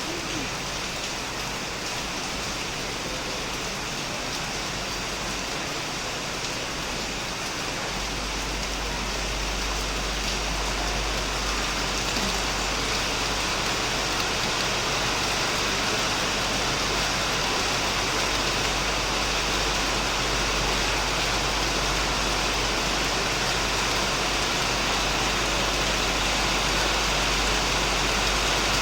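Heavy rain falling steadily on a shed roof and surrounding plants, a dense even patter that grows a little louder and fuller about a third of the way in.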